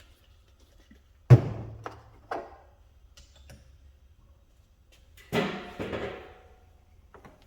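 A sharp thump about a second in, then two lighter knocks, then two duller thuds near the end that trail off briefly.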